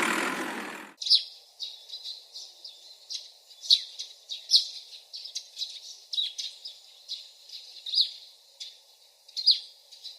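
Small birds chirping: many short, quick calls in a loose, uneven run over a faint steady background hiss. They start about a second in, just after a loud rushing noise cuts off.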